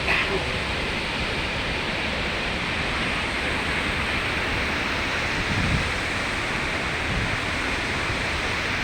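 Waterfall: a steady rush of falling, churning water.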